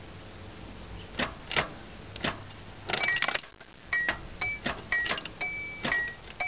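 Hand tool working on a car battery terminal clamp: a few scattered metal clicks, then from about three seconds in a steady back-and-forth of clicks, each with a short squeak that alternates between two pitches about twice a second.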